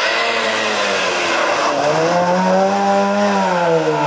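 A Trabant rally car's two-stroke two-cylinder engine buzzes as the car comes up to the camera and goes by. Its pitch dips briefly, climbs about two seconds in as the car accelerates, then drops near the end as the car passes.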